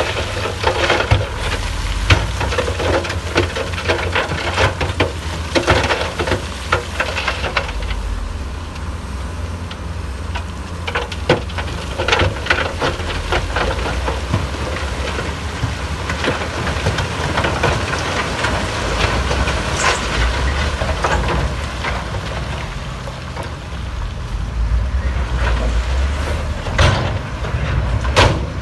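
Heavy earthmoving machine running with a steady low diesel rumble, overlaid by scattered clattering and cracking. The clatter is busiest in the first several seconds and again near the end.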